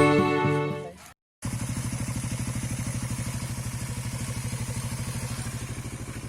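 Background music fades out in the first second. After a brief gap, a Suzuki Raider 150 Fi's single-cylinder engine idles steadily with a rapid, even pulse.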